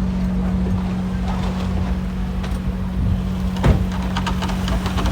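A steady low mechanical hum with an even tone and a rumble beneath it, like an engine or motor running at a constant speed. One short thump about two-thirds of the way through, followed by a few light clicks.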